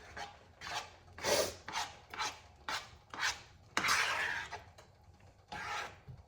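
A utensil scraping the pot while stirring thick cheese sauce, in a run of uneven strokes about every half second.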